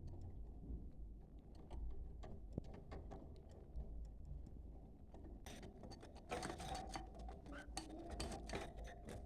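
Budgerigars chattering and warbling: rapid clicks and chirps over a wavering warble. The chatter is faint at first and becomes much busier and louder about five and a half seconds in.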